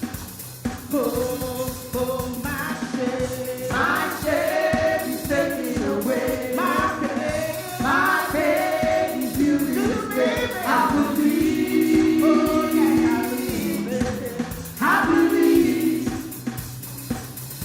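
Gospel worship singing: voices in a choir-like group singing over instrumental accompaniment with a steady low bass line.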